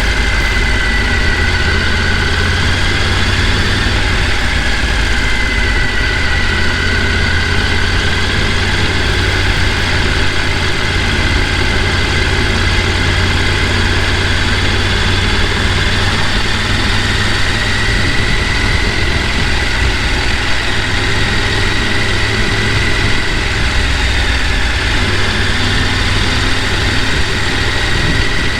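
Mountain stream rushing over rapids, a steady loud roar of water with a deep rumble and a faint wavering high tone running through it.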